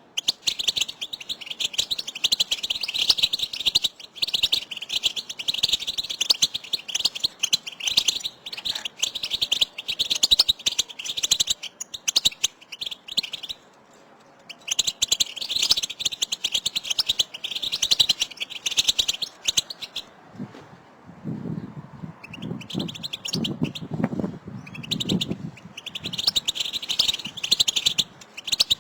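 A group of European goldfinches twittering, with rapid high chirping calls that pause briefly about halfway through. About two-thirds of the way in, a lower-pitched sound joins for a few seconds.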